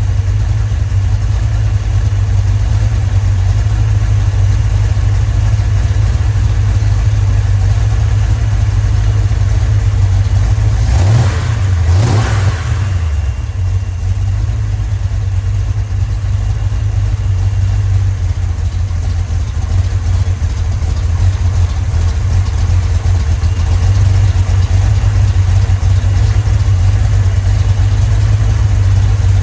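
Freshly rebuilt Chrysler 318 V8 idling steadily, with one brief rev up and back down about eleven seconds in.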